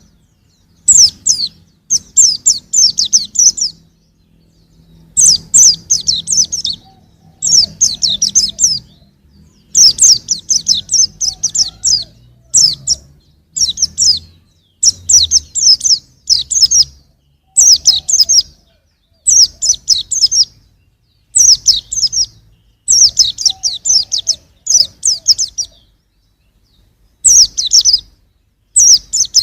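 Young white-eye (pleci) singing: short phrases of quick, high twittering notes, repeated every second or two with brief gaps.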